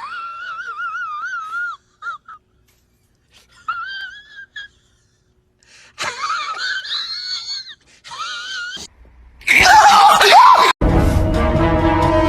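An animal's high-pitched whining cries, long and wavering, in three spells with short pauses between. Near the end a louder burst gives way to music.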